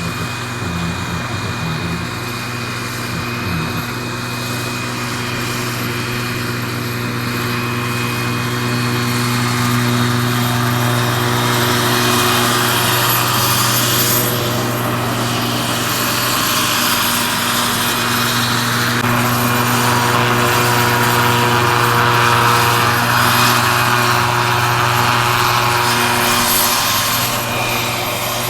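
Turbine-powered scale model Agusta AW109 K2 helicopter with a 3.1 m rotor running steadily: a low rotor thrum under a thin high whine. It grows gradually louder through the middle and eases slightly near the end.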